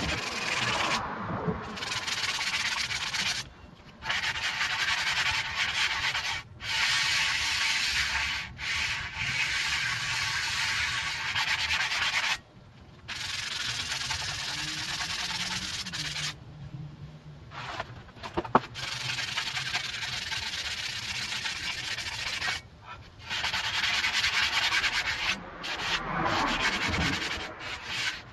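Sanding rusty metal by the truck's wheel and brakes: long spells of steady scratchy hiss with short pauses between them, taking off surface rust before the parts are painted.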